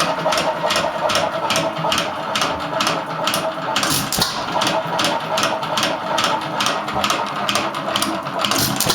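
1.5 hp Hercules hit-and-miss stationary engine, a single-cylinder four-stroke, running with an even beat of about three sharp strokes a second.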